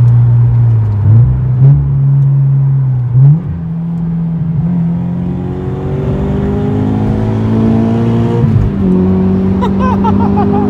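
Turbocharged Scion FR-S's 2.0-litre flat-four engine, heard from inside the cabin, pulling hard through the gears: the engine pitch climbs in stages, breaking at gear changes about a second in and near nine seconds, with a long steady climb between.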